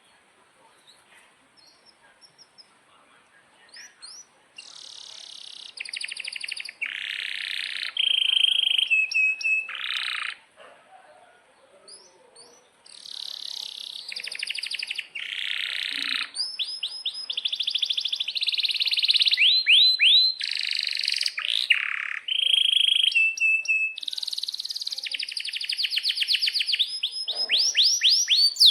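Domestic canary singing a long, loud song of rapid trills, rolls and fast repeated high chirps, starting about four seconds in, with a short pause near the middle.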